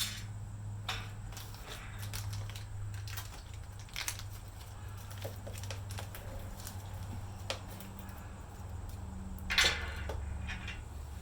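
Scattered light clicks and clinks of small metal hardware being handled as bolts, washers and nylock nuts are fitted to a steel mounting plate, with one louder scrape near the end, over a steady low hum.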